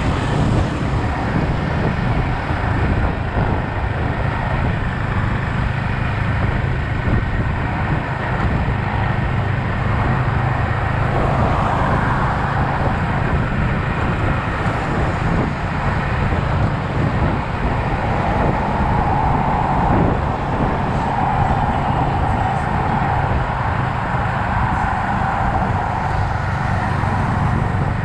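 Yamaha XSR 155's single-cylinder engine running as the motorcycle is ridden through traffic, a steady hum under constant road noise, with the sound swelling a little twice in the middle.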